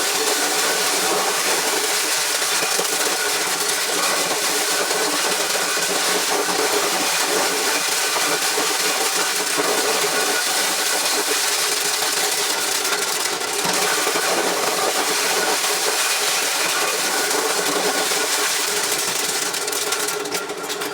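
Engine-driven corn shelling machine running steadily, a dense, even mechanical noise with a constant hum; the level dips briefly near the end.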